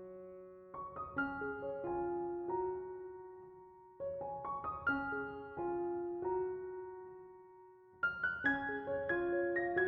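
Soft solo piano background music, gentle phrases of notes that ring out and fade, with a new phrase starting about every four seconds.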